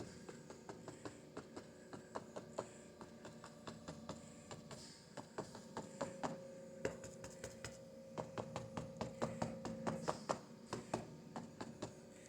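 Stippler brush dabbed repeatedly against the painting: a quick, irregular run of light taps, several a second, with short pauses between runs.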